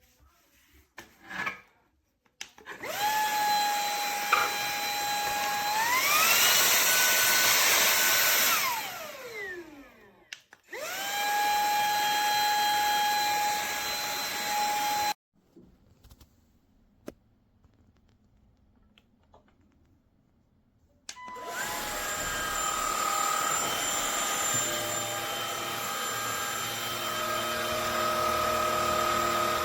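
Cordless stick vacuum's brushless motor spinning up to a steady whine, then stepping up to a higher-pitched, louder power setting before winding down with a falling whine. It starts again, runs for about four seconds and cuts off suddenly. After a quiet pause with a few clicks, the motor starts up again and runs steadily.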